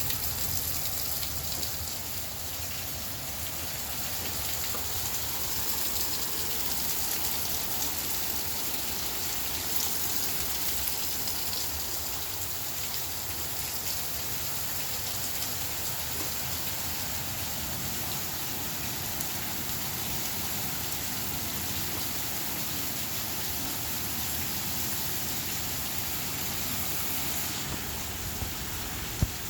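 Steady rain from a severe thunderstorm, with a sharp knock near the end.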